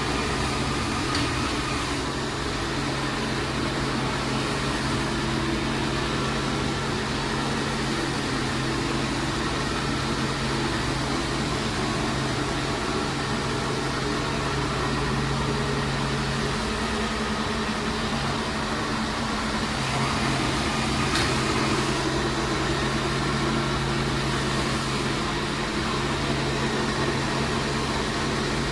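Xiaomi robot vacuum-mop running: a steady motor and fan hum with a low tone.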